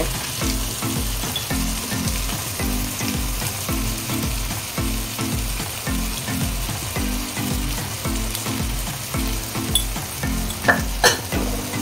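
Onion-tomato masala frying in sesame oil in a nonstick kadai, a steady sizzle, under background music with a regular low beat. Two sharp clicks come near the end.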